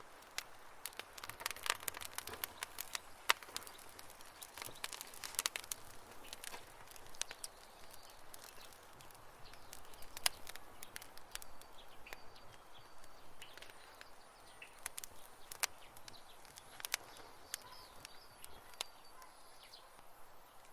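Wood campfire crackling, with irregular sharp pops and snaps, thickest in the first few seconds. Faint high chirps sound in the background around the middle.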